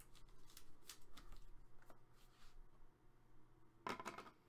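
Faint handling of trading cards: light, irregular clicks and rustles as cards are slid and turned over, with a short louder rustle near the end.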